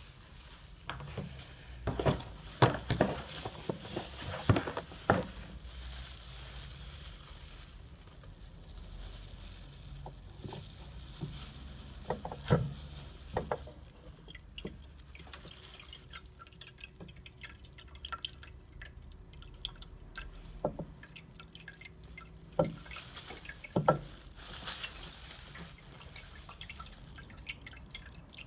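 Diesel fuel dripping from the opened fuel filter, with scattered clicks and knocks from the filter parts being handled.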